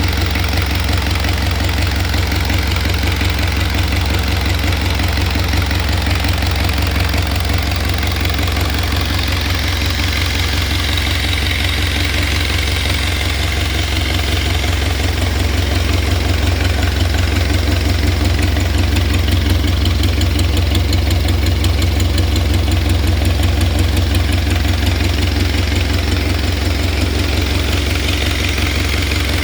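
Isuzu C240 four-cylinder diesel engine idling steadily, a little louder for a while in the middle.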